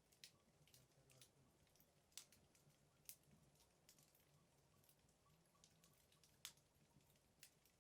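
Wood fire burning in a fireplace, crackling faintly with scattered sharp pops at irregular moments, the loudest about six and a half seconds in.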